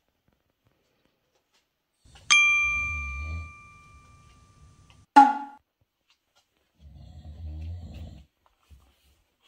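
A single bell-like ding about two seconds in, ringing out and fading over a couple of seconds, followed about three seconds later by one short, sharp yelp-like sound.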